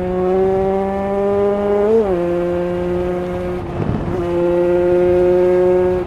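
KTM 150 EXC two-stroke single, with a Pro Circuit header pipe and stock silencer, running hard under load. Its pitch climbs slowly, flares up and drops back about two seconds in, then holds steady. Near four seconds the note briefly breaks up before it picks up again.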